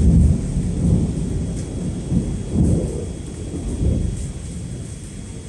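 Thunder rumbling in a hard summer rainstorm, loudest at the start and rolling on in several swells as it fades, over the steady hiss of heavy rain.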